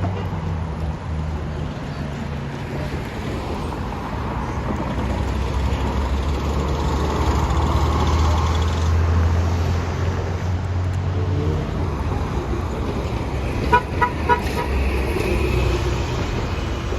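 Street traffic with a heavy vehicle engine's low, steady rumble, and a vehicle horn giving three short toots in quick succession about fourteen seconds in.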